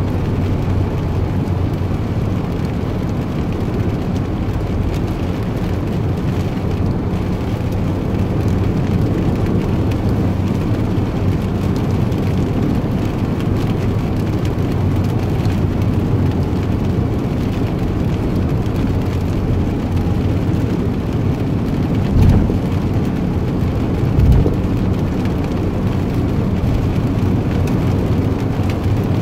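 Steady low rumble of a running vehicle with a faint steady hum, broken by two short thumps about two seconds apart near the end.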